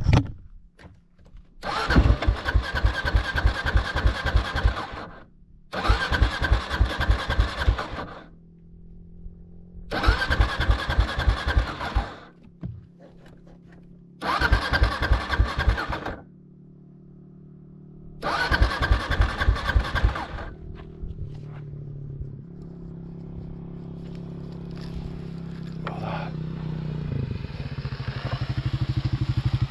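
Motorcycle engine cranked on the starter five times in short bursts of two to three seconds, each turning over without catching: the bike is out of fuel and the reserve petcock is not delivering. Over the last several seconds another engine approaches, growing steadily louder.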